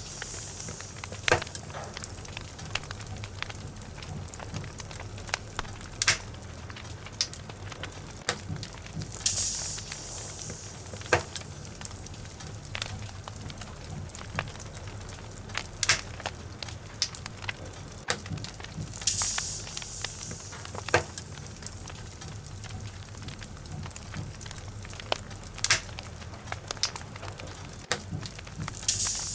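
Logs burning in a fireplace, crackling with frequent sharp pops over a steady low rumble. Brief high hissing swells come about every ten seconds.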